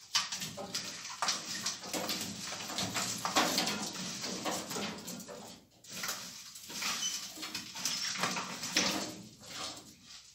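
Rustling, crackling and light knocking of wood and kindling being handled while a wood-burning stove is laid and lit, in two spells with a brief pause about six seconds in.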